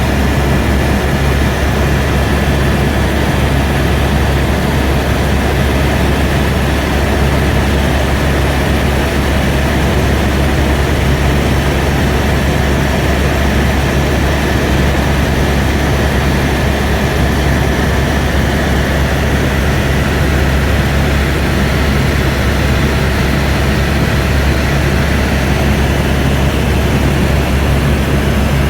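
Airbus AS350 B2 helicopter in flight, heard from inside the cabin: a steady, loud mix of low rotor drone and turbine noise with a thin, constant high whine.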